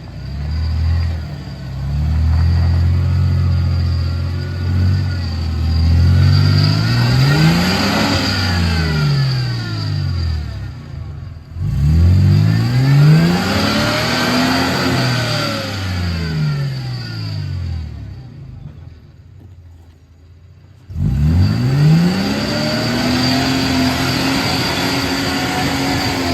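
Toyota Land Cruiser 4WD engine revving hard and repeatedly, its pitch climbing and falling over and over as the truck works through the track. There are a couple of sudden breaks, and near the end it revs up quickly and holds high.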